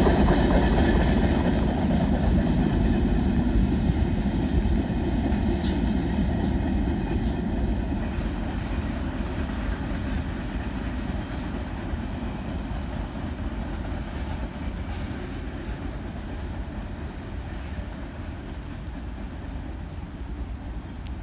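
Freight train's wheels rumbling and clattering on the rails as the end of the train moves away, the sound fading steadily.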